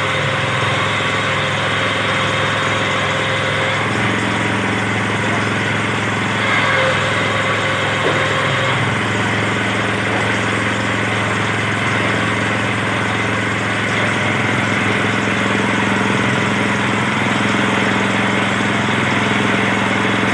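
Small engine of a simple well-drilling machine running steadily, its note shifting slightly a few seconds in.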